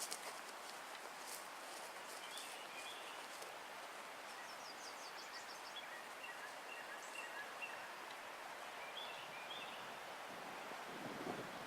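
Faint outdoor woodland ambience with scattered calls of small songbirds, including a short, rapid trill about five seconds in.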